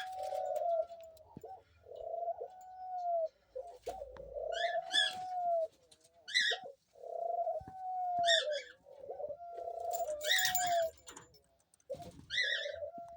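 Pet doves cooing: a run of low, drawn-out coos, one after another, with short higher-pitched notes over several of them.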